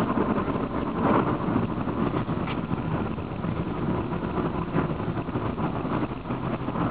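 Honda car cruising at steady speed, its engine and road noise heard from inside the cabin as a steady low rumble.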